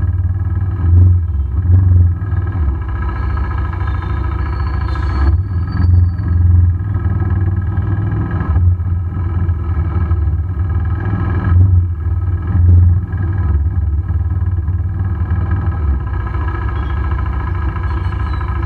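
KTM RC390's single-cylinder engine running steadily, with short louder low swells every few seconds.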